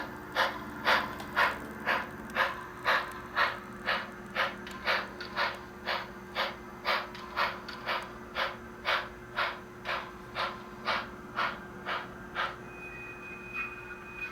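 Bachmann Spectrum HO-scale 2-8-0 steam locomotive's sound decoder playing steam exhaust chuffs through its tender speaker as the model runs in reverse, about two chuffs a second over a low steady hum. The chuffing stops about twelve seconds in, and a faint high steady tone follows.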